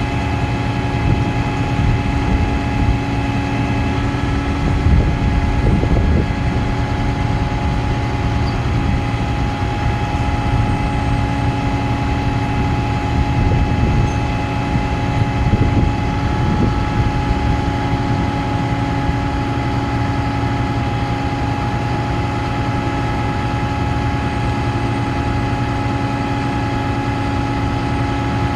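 2015 Ford F-750 truck engine running steadily, powering the Altec AA55 bucket boom's hydraulics: a continuous low drone with a steady whine over it, a little louder around five and fifteen seconds in.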